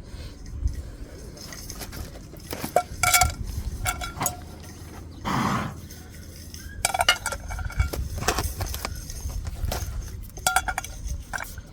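Metal camping cookware and utensils clinking and clattering in many short ringing knocks, with a brief rushing noise about five seconds in.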